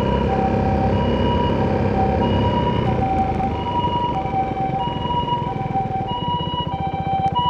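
Two-tone emergency-vehicle siren, alternating a high and a low tone about once a second and growing louder near the end. Under it runs an Italjet Dragster 200's single-cylinder four-stroke engine with an Akrapovic exhaust, which settles into an even, pulsing idle about halfway through.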